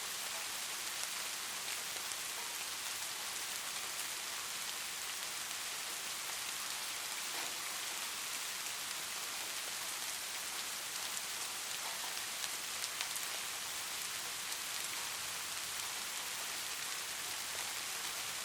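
Light rain falling steadily: an even hiss of rain with the faint ticks of single drops.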